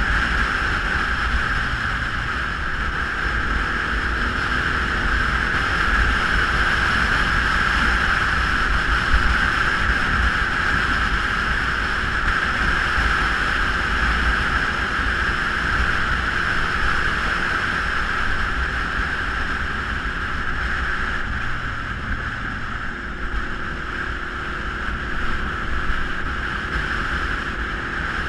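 Geon Scrambler 250 motorcycle running steadily under way, its engine rumble mixed with wind rushing over the microphone.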